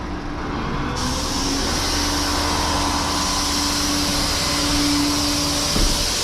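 Rollback tow truck's hydraulic bed running: a steady mechanical whine with a wide hiss that comes in about a second in.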